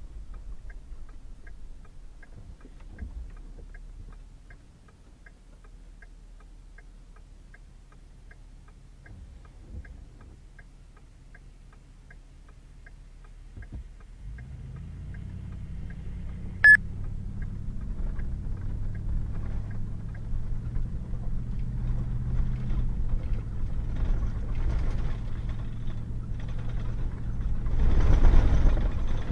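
Pickup truck sitting quiet with a light ticking about twice a second, then about halfway through its engine comes up and runs, with one sharp click, building to a surge near the end as it is revved or pulls away.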